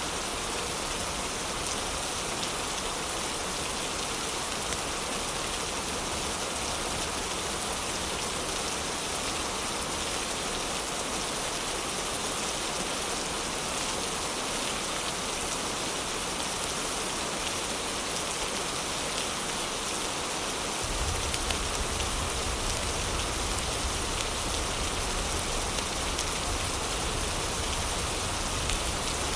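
Heavy rain falling steadily, an even hiss of drops on surfaces. About two-thirds of the way through, a deeper low rumble comes in under the rain and the whole sound gets a little louder.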